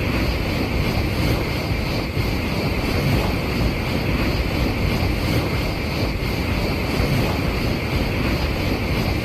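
Shinkansen bullet train passing at speed: a steady, unbroken rush of wheels on rail and air buffeting, with no break between cars.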